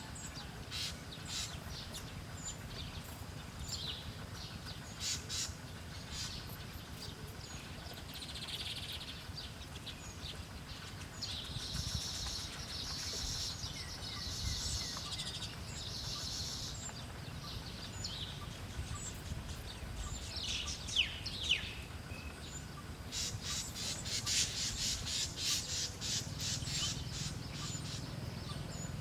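Small wild birds chirping and chattering. Their calls are short and high, with fast chattering runs about twelve seconds in and again near the end, and a few quick falling whistles in between.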